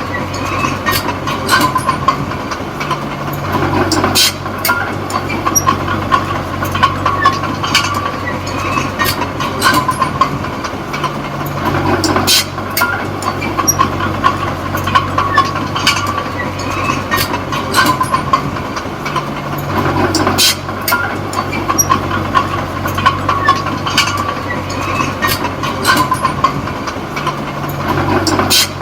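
Komatsu D20P small crawler bulldozer's diesel engine running under work, its note shifting about every eight seconds, with frequent metallic clanks and knocks from the tracks and blade.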